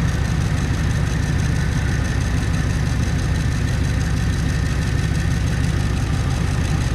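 Truck engine idling with a steady low rumble through a broken exhaust, the idle a little wonky. The owner suspects something loose, possibly a motor mount.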